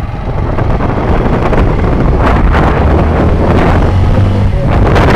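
Wind buffeting the microphone on a moving motorcycle, with the engine running underneath as a low steady hum. It gets louder over the first couple of seconds as the bike picks up speed.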